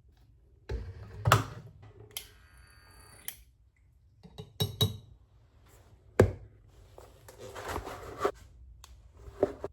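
Scattered knocks and clinks of kitchen utensils and dishes being handled, with a brief scraping squeak about two seconds in.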